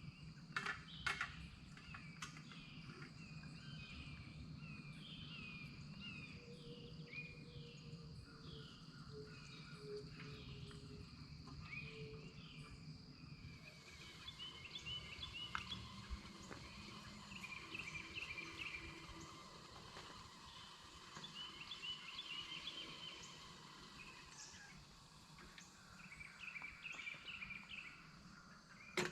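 Songbirds singing in the morning. First comes a repeated, hooked chirp about once a second; from about halfway on there are bursts of rapid trilled notes. A low, steady hum runs underneath.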